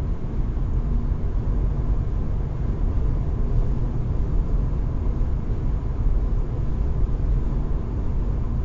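Steady road and tyre rumble inside a 2021 facelift Hyundai IONIQ at driving speed, with a faint steady humming whistle on top. This is the owner's unexplained noise, which gets louder with speed and stays the same in neutral and on summer or winter tyres.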